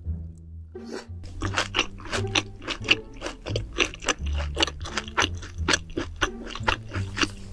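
Close-miked chewing of a large mouthful of food: a quick run of wet clicks and smacks, about three to four a second. Background music with a steady low bass line plays under it.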